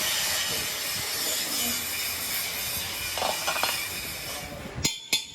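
A workshop machine working metal with a steady, loud, high hiss that cuts off suddenly near the end, followed by a few sharp metallic clicks.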